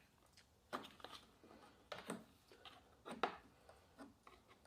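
Near silence broken by a few faint clicks and light taps, the clearest about a second, two seconds and three seconds in: small parts and controls being handled on a snowblower.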